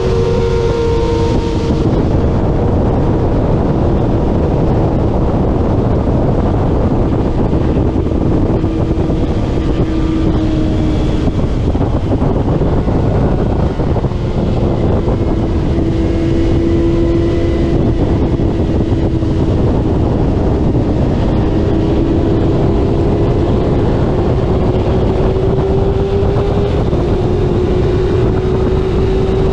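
Middleweight superbike racing engine at speed, heard onboard. Its pitch climbs slowly and drops suddenly a few times, the pattern of gear changes, under heavy wind rush.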